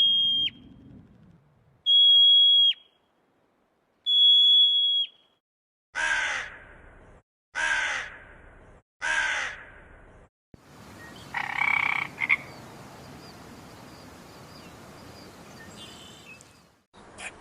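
A series of animal calls from different animals. First come three steady, high whistled tones about two seconds apart. Then three harsh, croaking calls about a second and a half apart, followed by a noisier stretch with a short pulsed call and another call at the end.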